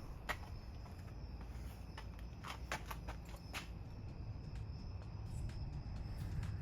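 A handful of sharp clicks and taps, clustered in the middle, over a low steady rumble.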